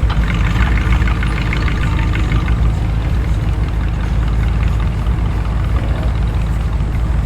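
Car engines idling and rolling past at walking pace, a steady deep rumble.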